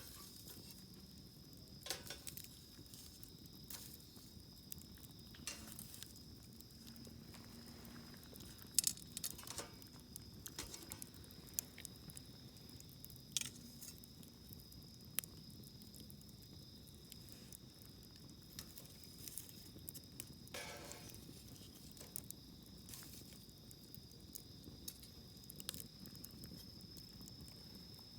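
Wood fire burning in a metal fire-pit grill, crackling faintly with scattered sharp pops at irregular intervals, the loudest about nine seconds in.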